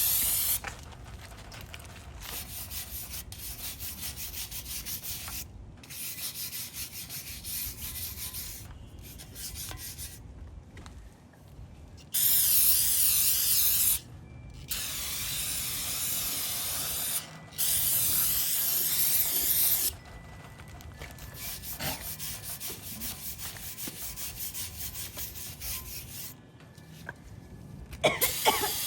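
Aerosol spray can of cleaner hissing in long bursts onto an engine block, loudest about twelve and eighteen seconds in. Between the bursts there is quieter, uneven scrubbing and rubbing on the block.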